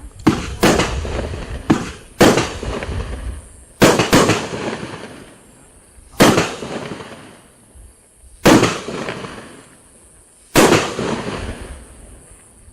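A 200-gram, 12-shot consumer fireworks cake firing its shots one after another: about nine sharp bangs, some in quick pairs early on and the last few spaced about two seconds apart, each trailing off over a second or so.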